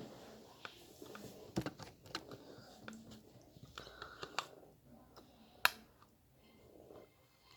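A spoon clicking and tapping irregularly against a plastic yoghurt pot, with one sharper click a little past halfway.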